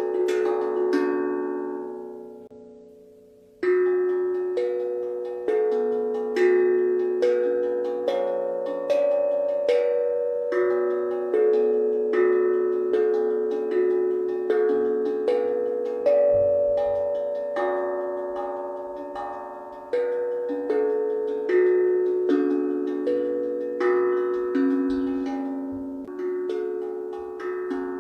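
A pitched percussion instrument playing a slow melody, each struck note ringing on and fading. A few notes open it, the ringing dies away for about two seconds, then notes are struck again roughly once a second, each with a long ringing tail.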